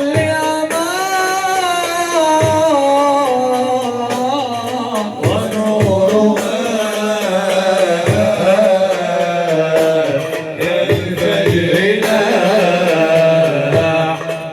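Arabic inshad ensemble music: a long, gliding melismatic melody sung over repeated hand-drum strikes.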